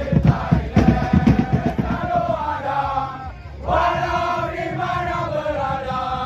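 A crowd of football supporters chanting in unison over beating drums. The drums stop about halfway through, and the crowd then holds a long sung note.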